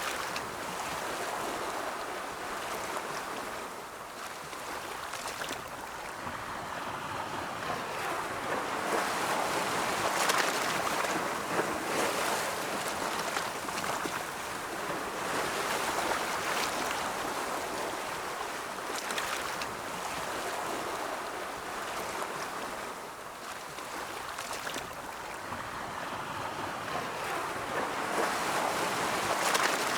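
Ocean surf: waves rolling in and washing up, the rush swelling and ebbing every few seconds.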